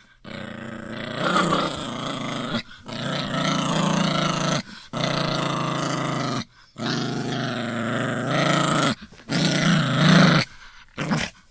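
A dog growling in a string of long growls, each about two seconds, with short breaks between them.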